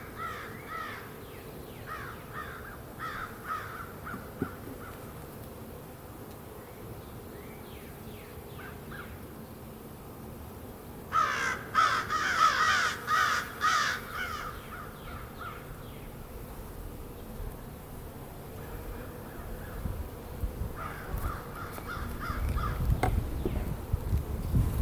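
Crows cawing repeatedly, with a loud run of caws about eleven seconds in. A low rumble rises near the end.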